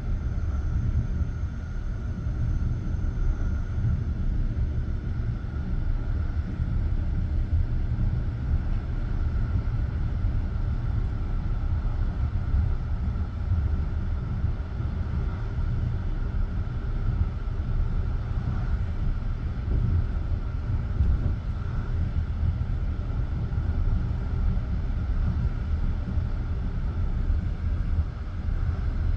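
Passenger train running along the line: a steady low rumble of the coach's wheels on the rails.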